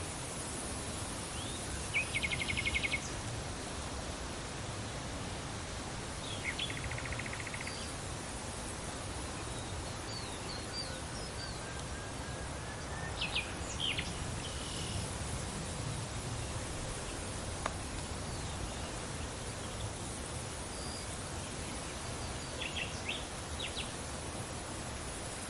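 Steady wind noise with birds calling now and then over it: a rapid trill about two seconds in, which is the loudest sound, another trill a few seconds later, and scattered short chirps after that.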